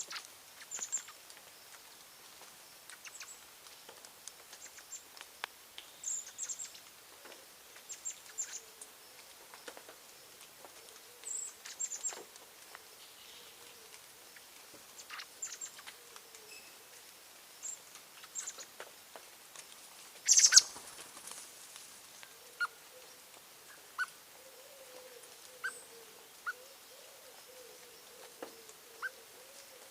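Birds calling with short, thin, high chirps scattered throughout, and a short loud rustle about two-thirds of the way in. A low wavering cooing tone runs beneath the calls in the last third.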